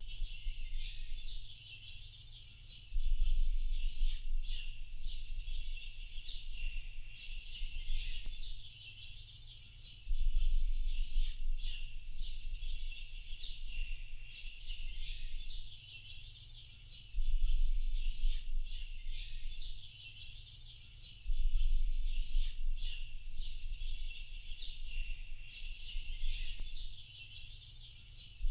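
A dense chorus of many small birds chirping and twittering without a break. A low rumble cuts in abruptly four times and dies away a few seconds after each start.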